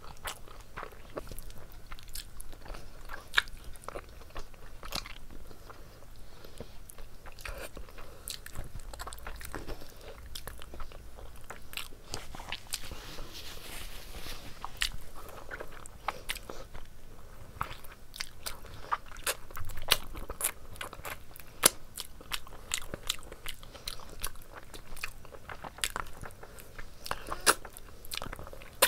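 A person chewing and biting chicken curry with rice eaten by hand, a dense run of sharp, wet mouth clicks and crunches.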